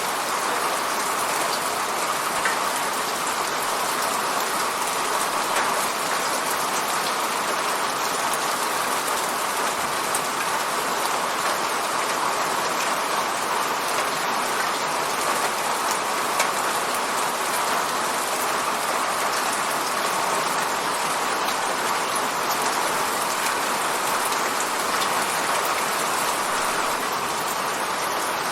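Steady rain falling on a window pane, an even hiss of many drops with a few sharper individual drop ticks.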